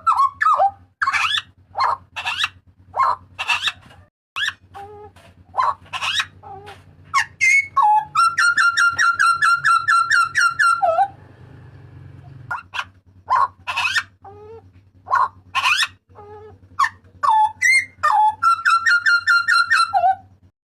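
A jagal papua (Papuan butcherbird) giving loud whistled calls: a string of sharp notes that slide up and down, twice breaking into a fast, even run of repeated notes.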